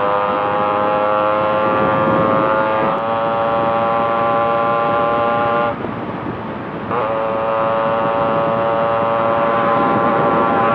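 Yamaha RX two-stroke single-cylinder motorcycle engine with an inbuilt expansion-chamber exhaust, running hard at about 100 km/h on the highway: a high, steady engine note over a rushing noise, climbing slightly in the first few seconds. Near the middle the note drops away for about a second, then picks up again with a short rise and holds steady.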